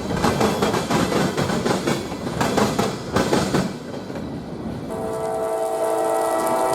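Train wheels rolling past with a fast, dense clatter that dies away a little under four seconds in. About five seconds in, a locomotive's multi-note air horn sounds a long held chord.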